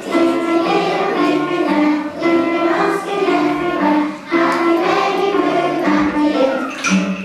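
Children's choir singing a song, with held notes.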